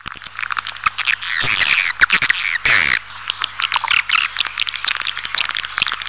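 Recorded edible-nest swiftlet calls, the kind played to lure swiftlets into a bird house: a dense mass of rapid twittering chirps, with two louder calls that slide down in pitch about one and a half and three seconds in. A steady low hum runs underneath.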